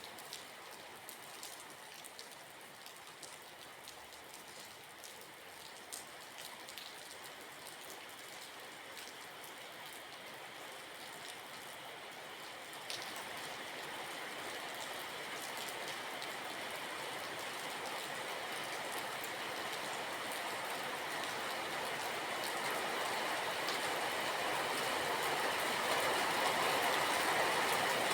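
Rain falling, with the patter of drops. From about halfway through, a steady rushing noise swells gradually louder over the rain.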